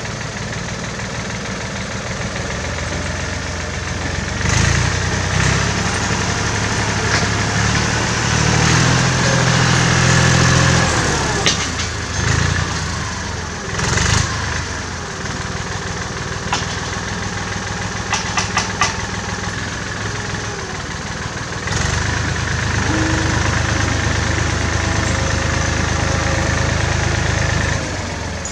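1967 David Brown tractor engine running, growing louder about four seconds in, easing back after about twelve seconds and working harder again from about 22 seconds, as the load changes. A few sharp clicks or clanks come through midway, among them a quick run of four.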